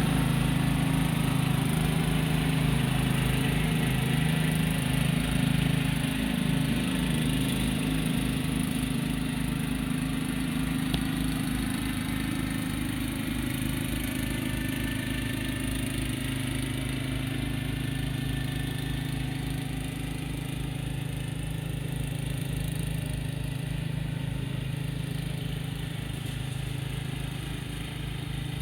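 Lawn mower engine running steadily at a constant speed, slowly getting quieter.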